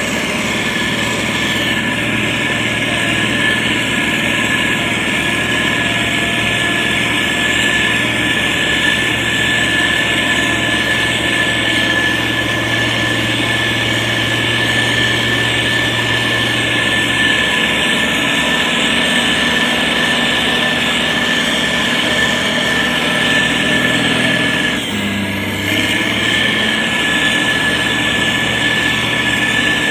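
SANY STG190C-8S motor grader's diesel engine running steadily under load while pushing soil, with a constant high whine over the engine drone. About 25 seconds in, the sound dips briefly and the engine note shifts.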